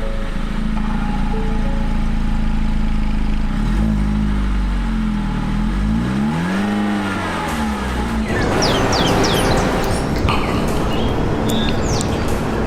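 Ford EcoSport SES 2.0-litre naturally aspirated inline-four idling steadily, then revved once, its pitch climbing and falling back over about four seconds. From about eight seconds in, a steady rushing noise with birds chirping.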